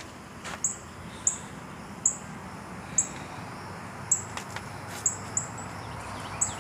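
A small bird chirping repeatedly: short, sharp, high notes, about one a second, over light outdoor background noise.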